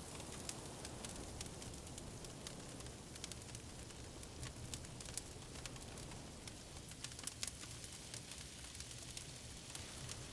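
Wood fire crackling, with frequent small irregular pops and snaps over a low steady hiss.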